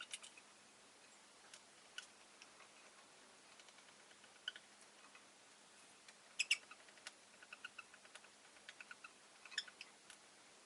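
Rosy-faced lovebirds giving soft, short chirps and clicks at irregular intervals, with louder chirps about six and a half seconds in and again near the end.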